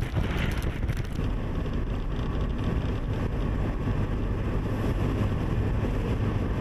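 A steady low rumble of a vehicle engine running, with blizzard wind buffeting the microphone in gusts during about the first second.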